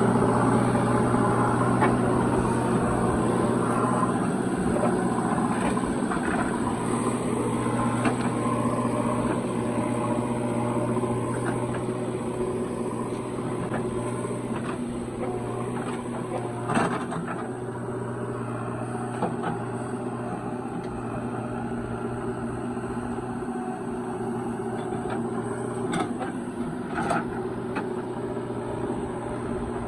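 Heavy diesel engine running steadily at a constant speed, with a few sharp knocks: one about halfway through and two more near the end.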